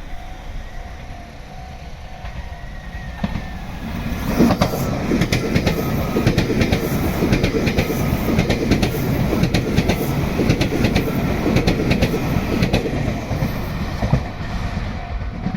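A Meitetsu electric train passing close by. It jumps in loudness about four seconds in, with wheels clicking irregularly over rail joints, and eases off near the end.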